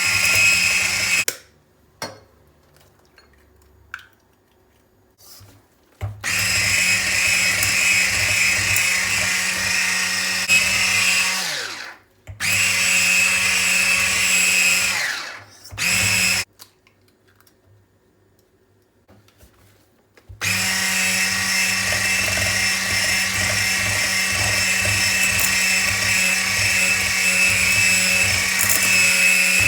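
Small electric motor of a kitchen appliance running in bursts, its pitch dropping as it winds down each time it is switched off. Between runs there are a few light knocks, and a long steady run starts about two-thirds of the way in.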